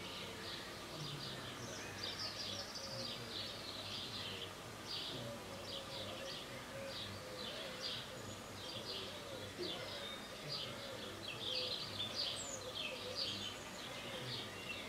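Small birds chirping over quiet, steady background noise.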